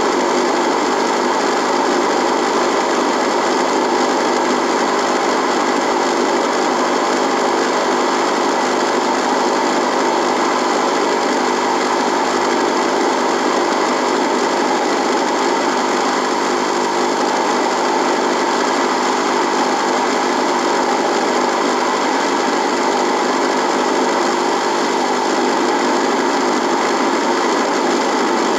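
Radio buzzing: a steady electrical buzz with a constant hum of several fixed tones under a hiss, unchanging throughout.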